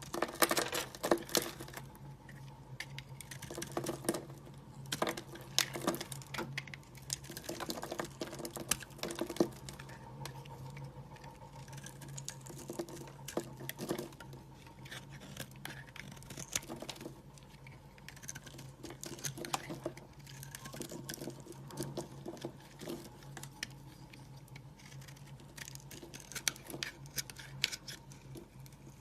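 Bar soap being cut and crumbled: irregular crisp crackles and clicks over a low steady hum.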